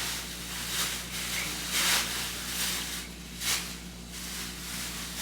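Plastic bags rustling and crinkling as they are handled, in about five short bursts, over a steady low hum.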